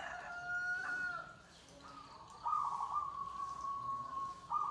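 Birds calling: a short call with two held tones at the start, then one long drawn-out call about halfway through that falls slightly in pitch, and another call beginning near the end.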